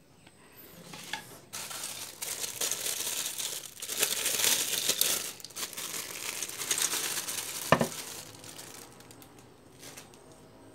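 Plastic crinkling and rustling as packaging or wrapping is handled, loudest about four seconds in, with a sharp click near the end.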